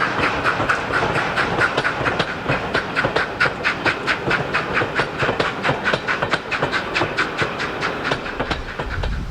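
Steam train running at speed, with a rapid, even beat of about five a second.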